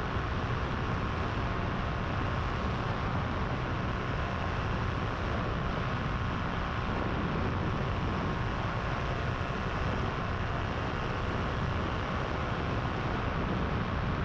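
Powered paraglider's engine and propeller running steadily in flight, a constant drone with no change in throttle.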